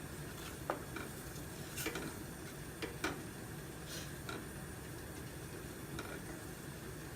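A spoon stirring gravy in a pot on the stove, giving irregular light clicks and scrapes against the pot over a steady low hiss from the heating gravy.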